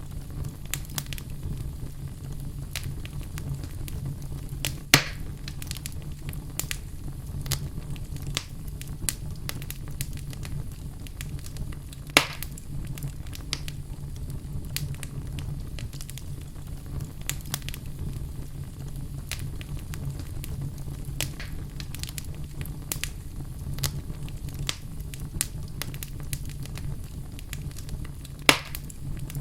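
Wood fire burning in a fireplace: a steady low rumble with constant small crackles, and three louder sharp pops from the burning logs, about five seconds in, at twelve seconds, and near the end.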